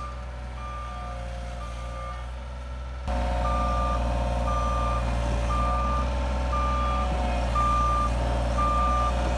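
A truck's reversing alarm beeping steadily, about once a second, over its running engine. The sound gets louder about three seconds in.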